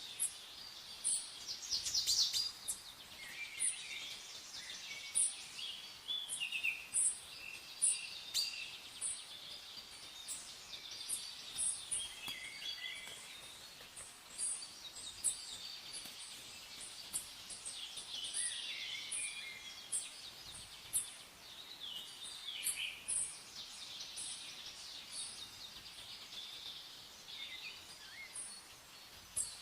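Several wild birds chirping and singing over one another, with short chirps and trills and a thin, very high note repeating about once or twice a second.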